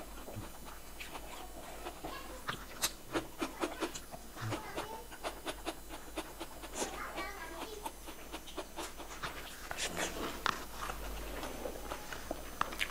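Close-miked mouth sounds of eating by hand: chewing, with many short irregular lip smacks and clicks.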